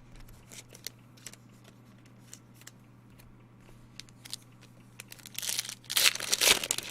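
Faint clicks of trading cards being handled, then about five seconds in a loud crinkling rip of a foil card pack being torn open, lasting about a second and a half.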